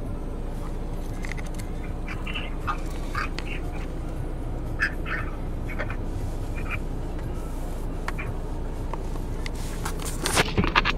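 A series of short, separate animal calls, a dozen or so, sounding over a steady low hum. Near the end come several loud knocks and rustles of handling noise.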